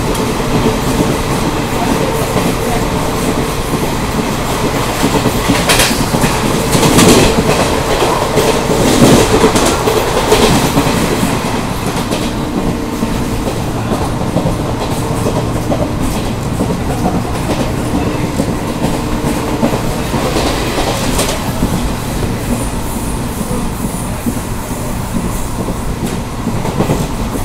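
Indian Railways ICF passenger coach running at speed, heard at its open door: a steady rumble with wheels clattering over rail joints. At first a freight train's covered wagons rush past on the next track. A run of louder clacks comes about six to eleven seconds in.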